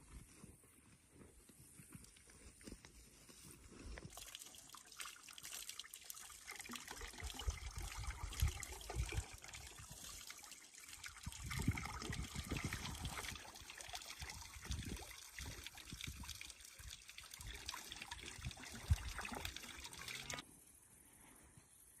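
Water trickling, rising about four seconds in and cutting off abruptly near the end, with uneven low thuds under it.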